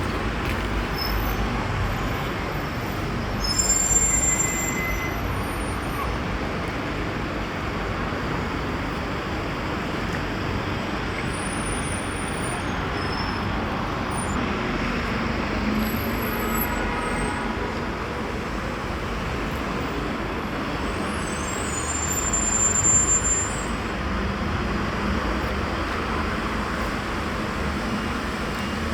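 Street traffic ambience: a steady rush of passing vehicles. Twice it briefly swells, with short high-pitched squeaks.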